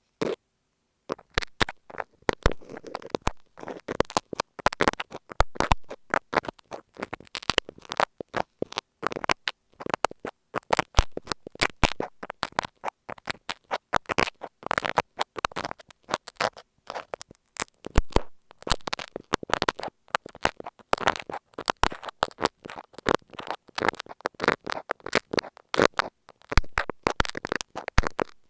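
Marking pins scratching and tapping on masking tape, recorded right at an earphone microphone: a dense run of close, crackly scratches and clicks with a brief pause about a second in.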